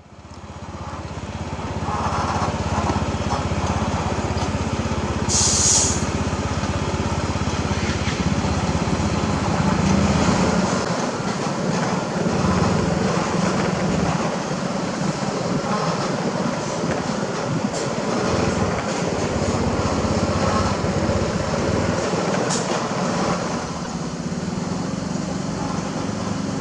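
Heavy diesel engine running steadily, fading in at the start, with a short hiss about five and a half seconds in.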